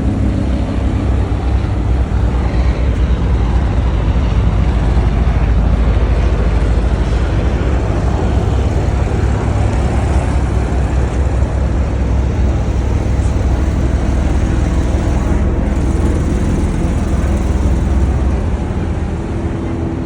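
A car engine running with a steady, deep low rumble that eases off about two seconds before the end.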